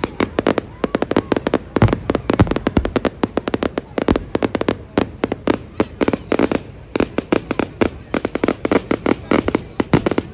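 Fireworks going off in a rapid barrage of sharp bangs and crackles, several a second, with a few deeper booms among them.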